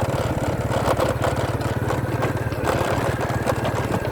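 Small motorcycle engine running steadily at low speed, a low even putter.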